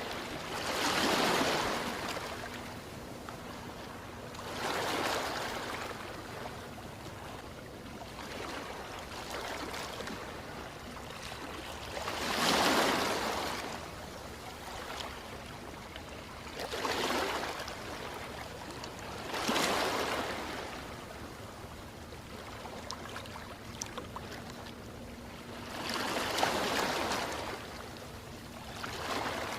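Ocean waves breaking and washing ashore, about six waves over half a minute, each a rising and falling surge of surf over a steady background wash.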